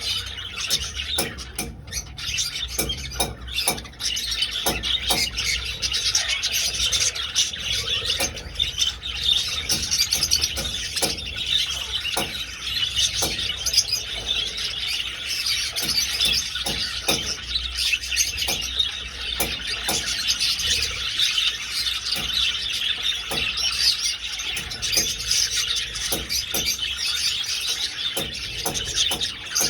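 A flock of budgerigars chattering and chirping continuously, a dense overlapping warble of many birds, with scattered short clicks mixed in.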